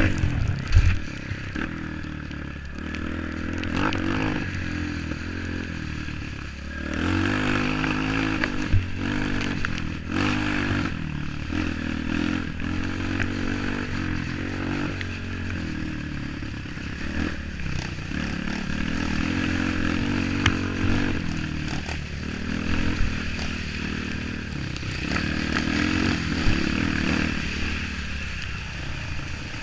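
Off-road motorcycle engine running and revving up and down again and again on a trail, with rattling and scraping from the bike.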